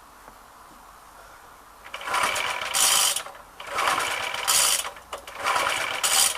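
Suffolk lawnmower's 75cc four-stroke sidevalve engine being cranked over by hand three times, each attempt about a second long, without firing. The owner suspects the engine is flooded.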